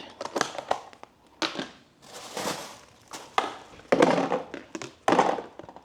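Plastic crinkling and rustling, with irregular clicks and knocks, as plastic food containers and bags are handled.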